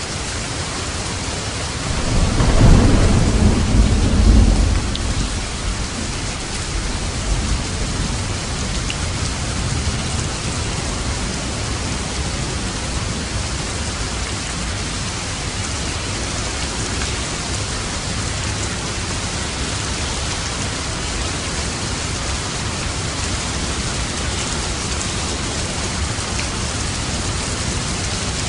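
Steady rain falling on a roof, with a low rumble of thunder starting about two seconds in that swells twice and dies away by about five seconds.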